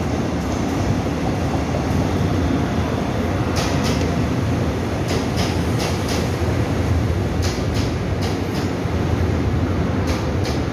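Taiwan Railway electric local train arriving at an underground station platform: a steady loud rumble of wheels on rail, with pairs of sharp clacks as the cars' wheel sets pass, several times from about three and a half seconds in.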